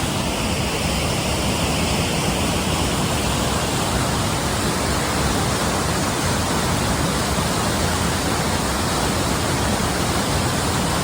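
Waterfall rushing close by: a steady, unbroken wash of falling water.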